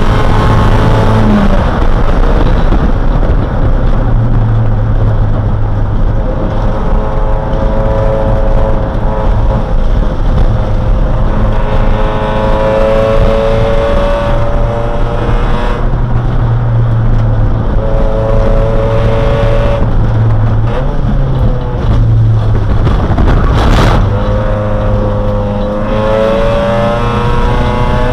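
A Neon race car's four-cylinder engine heard from inside the cabin, climbing in pitch under acceleration and dropping back several times at gear changes and lifts. A brief sharp knock comes near the end.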